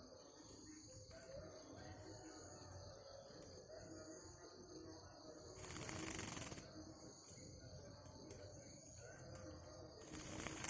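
Faint outdoor ambience: a steady high-pitched drone under a low background hiss, with two brief rustling bursts about six and ten seconds in.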